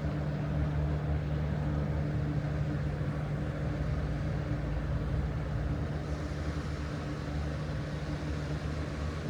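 Ship and tugboat engines droning steadily, a low hum with a constant tone while the tugs turn a large ship.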